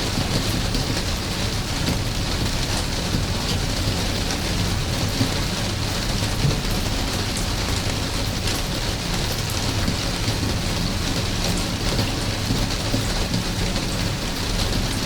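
Steady rain falling, an even hiss with many small drops ticking through it and a low steady rumble underneath.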